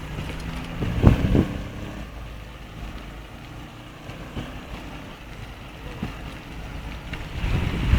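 Wind buffeting the microphone with a low rumble while riding a bicycle, gusting louder about a second in and again near the end.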